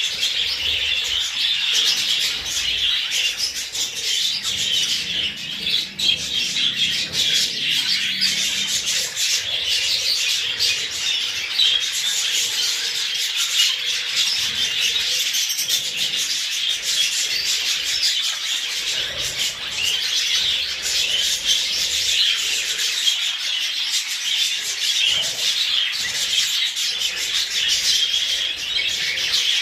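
Budgerigars chattering and warbling continuously, a dense unbroken stream of fast high chirps.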